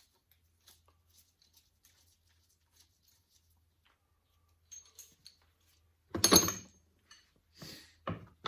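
Hand tools and metal engine parts being handled during an engine teardown: a few faint clinks, then a louder clattering scrape about six seconds in, followed by a couple of sharp knocks near the end.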